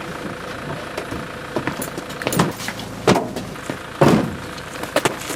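Car engine running, with four sharp thumps about a second apart in the second half.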